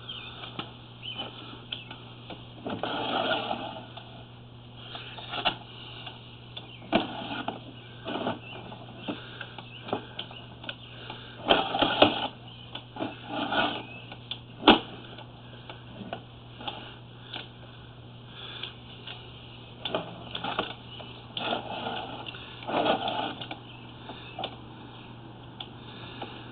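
Sewer inspection camera and push rod being fed down a sewer line: irregular knocks and rattles as the camera head and rod bump along the pipe, over a steady low electrical hum.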